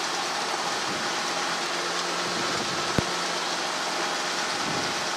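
Steady radio static hiss on the air traffic control channel between transmissions, with a faint hum and a single sharp click about three seconds in.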